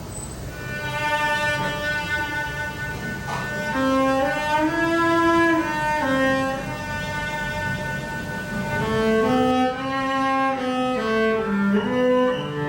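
Cello music: a slow melody of held, bowed notes stepping up and down, with a lower line moving beneath it.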